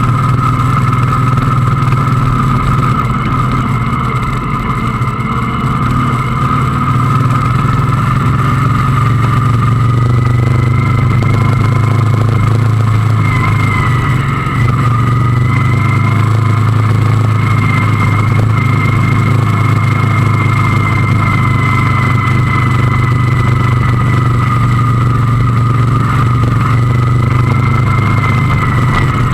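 Motorcycle engine running steadily while riding at an even speed, a constant low drone whose pitch barely changes.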